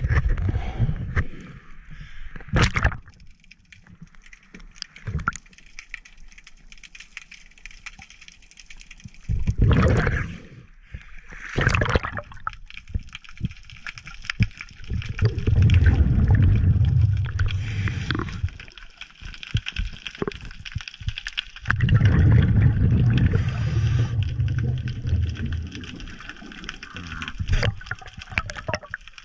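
Water splashing and gurgling around the GoPro's dive housing at the surface, then underwater: two long low bubbling rumbles, the second about six seconds after the first, from the scuba diver's exhaled regulator bubbles.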